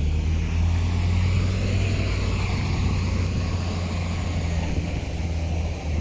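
Heavy diesel engine of earthmoving machinery running steadily, a deep continuous drone.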